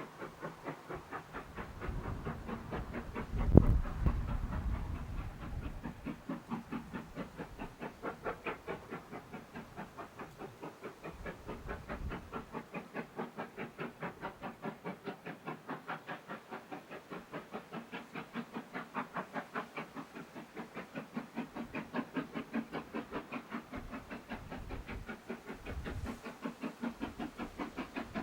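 Steam locomotive working along the line with a steady, even exhaust beat of about four chuffs a second. A single loud sharp knock about three and a half seconds in.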